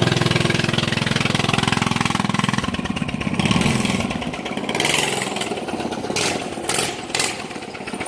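Pocket bike's 6.5 hp single-cylinder engine running, with a steady idle at first. About two and a half seconds in, the note turns fainter and uneven as the revs rise and fall.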